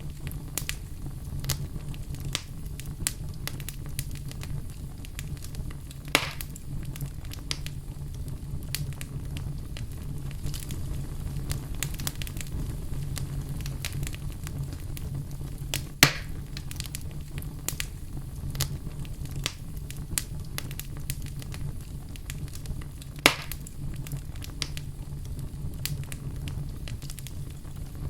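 Wood fire burning in a fireplace: a steady low rumble with continual small crackles, and three louder pops, one about six seconds in, one about sixteen seconds in and one about twenty-three seconds in.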